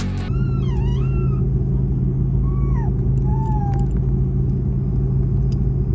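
Steady low hum and rumble inside an Airbus A330 airliner cabin. In the first four seconds it is joined by several short, high-pitched whiny glides that rise and fall, each under a second.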